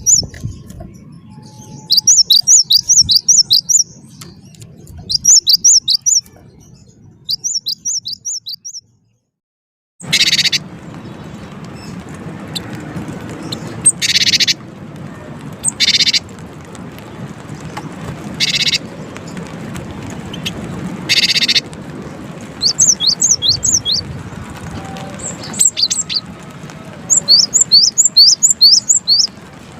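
Gelatik batu (cinereous tit) singing: quick bursts of about six high, sharp repeated notes, each burst lasting a couple of seconds. After a brief total silence about a third of the way in, a noisier recording with background hiss carries short harsh buzzy calls every few seconds, then the quick note bursts start again.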